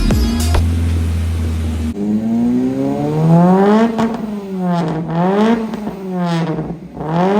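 Honda City with a custom header and exhaust being revved repeatedly, its pitch climbing and dropping back about three times. About two seconds in, music gives way to the engine.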